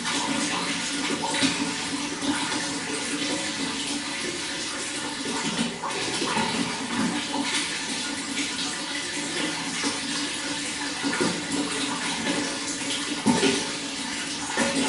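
Running water flowing steadily, a continuous rush dotted with many small splashes.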